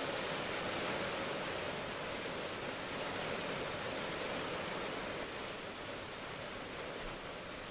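Steady rain ambience: an even, unbroken hiss of rainfall, easing slightly about two-thirds of the way through.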